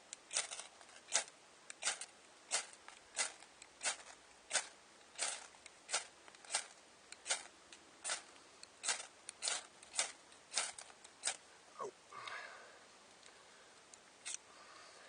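Repeated sharp scraping strikes of a fire striker, about two a second and about twenty in all, throwing sparks into a bird's nest of damp natural tinder to light a fire. The strikes stop near the end, followed by a short soft rush.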